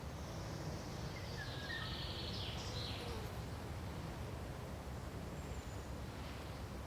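Forest ambience: a steady low rumble of wind-like noise with a few short, high bird chirps and whistled notes in the first half.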